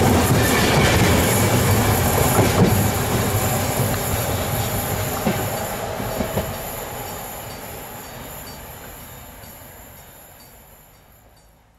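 Passenger train coaches passing close by, their wheels clattering and knocking over the rail joints, then the sound fades steadily as the train pulls away into the distance.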